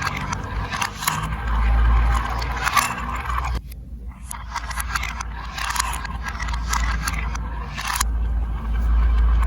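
Marbles rolling and rattling along a plastic building-block marble run, a continuous rolling rumble with scattered clicks, briefly breaking off a little past three and a half seconds in.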